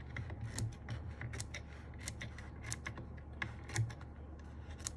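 Irregular light clicks and taps of hands handling a plastic keyboard case and a foam sheet, over a steady low hum.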